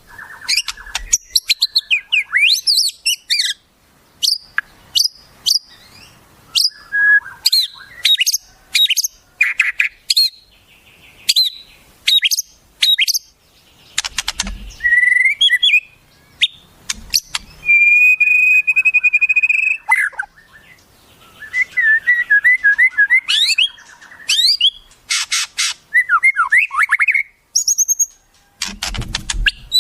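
Wild bird calls in quick succession, of the kind used on a masteran track for teaching a white-rumped shama: sharp whistles, chirps, sweeping notes and trills. About two-thirds in there is one steady held whistle, and later a fast rattling trill. A brief low rumble comes about halfway and again near the end.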